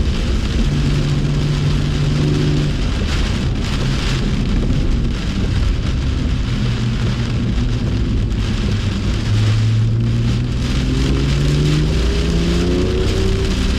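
BMW M2's turbocharged straight-six engine heard onboard under a steady hiss of heavy rain and tyre spray on a wet track. The engine note holds steady, drops lower through the middle, then climbs in pitch again near the end as the car accelerates.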